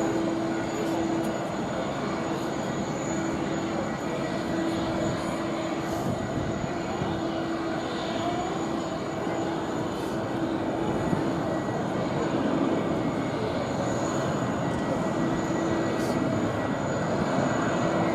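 Jet engines of a Korean Air Boeing 777-200 airliner running steadily while it taxis. The sound is a continuous rushing noise with a steady hum and a faint high whine; it neither rises nor falls.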